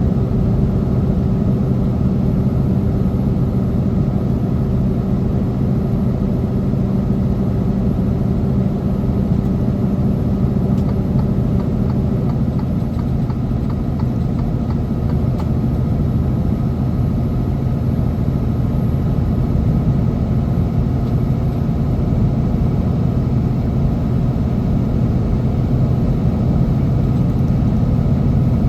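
Semi truck's diesel engine running with a steady, low, unbroken drone.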